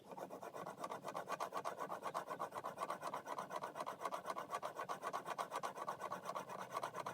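Steel chisel being rubbed backwards and forwards on an oiled sharpening stone in quick, even scraping strokes, about four a second. This is the primary bevel being honed to grind away a damaged, nicked edge.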